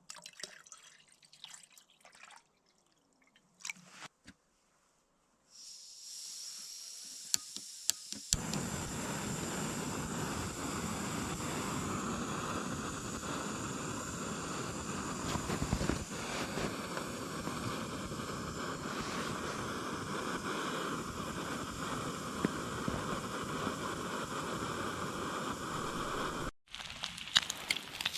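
Campfire burning: faint scattered clicks at first, then from about eight seconds in a steady hiss with occasional sharp pops, stopping suddenly near the end.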